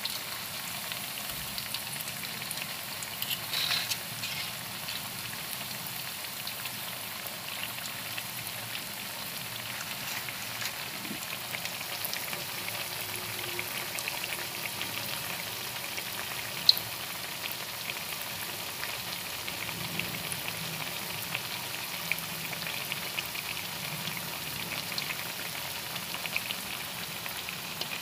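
Potato patties deep-frying in hot oil in a wok: a steady sizzle full of small crackles. One sharp pop comes a little past halfway.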